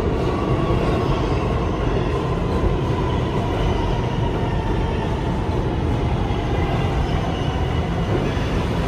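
New York City subway train running through the station: a steady, loud rumble of wheels and motors, with a faint whine that slowly falls in pitch.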